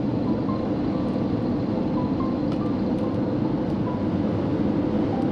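Steady road and engine noise of a moving motorhome, with soft music of short, high single notes laid over it.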